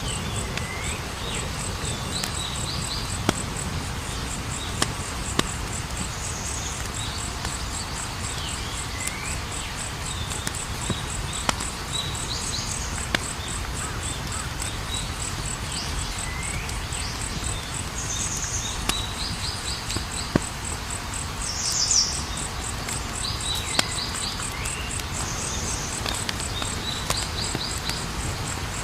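Campfire burning with a low rumble and scattered sharp crackles and pops, under a steady, rapidly pulsing high trill of crickets and occasional short chirping calls.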